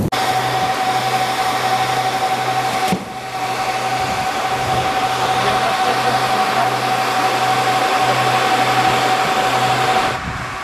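Steady rushing noise of an airliner, with a constant whine over a low pulsing hum.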